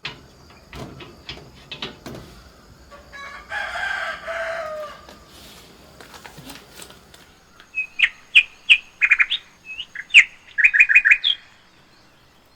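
Birds chirping outdoors: a longer call a few seconds in, then a quick run of short, sharp chirps, about three or four a second, which are the loudest part and stop near the end.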